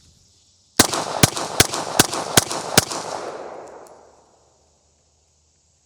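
Six handgun shots fired in a fast string, about 0.4 s apart: a Bill drill from the draw. Each shot's echo runs into the next, and the echo dies away over about a second after the last shot.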